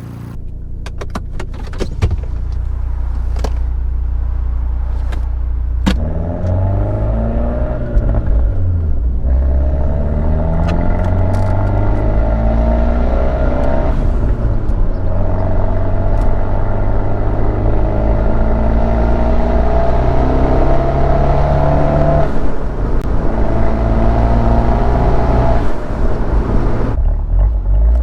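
Big-turbo Abarth 124 Spider's 1.4-litre turbocharged four-cylinder, through a Ragazzon exhaust, pulling up through the gears: the engine note climbs steadily in pitch, then falls briefly at each upshift, several times over. A few sharp clicks come in the first few seconds.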